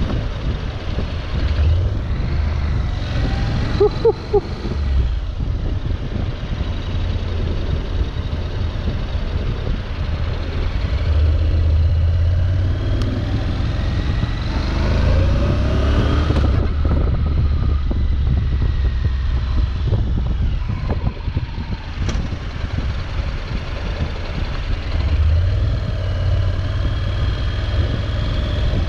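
Motorcycle engine running under way, its pitch rising and falling as the throttle opens and closes, loudest in the middle and near the end.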